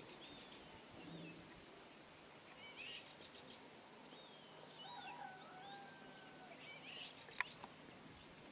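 Faint birdsong: short high chirps and quick trills that come and go several times, with longer drawn-out calls about five seconds in. A single sharp click near the end.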